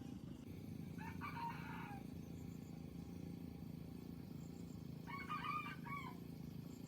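A rooster crowing twice, each crow about a second long and falling in pitch at the end, the second about four seconds after the first, over a steady low background noise.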